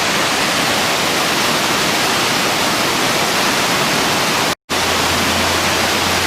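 Steady rushing roar of a waterfall, Trahlyta Falls, pouring over rock. It breaks off for an instant about four and a half seconds in.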